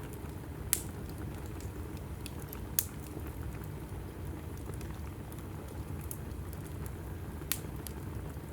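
Logs burning in a fireplace: a steady low rumble from the flames with scattered faint crackles, and three sharp pops from the wood, about a second in, near three seconds and near the end.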